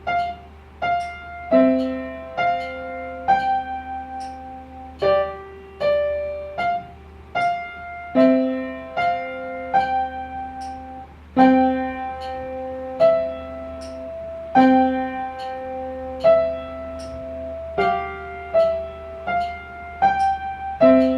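Piano playing a simple beginner-level piece: a slow melody of single notes, struck one at a time, over held lower notes.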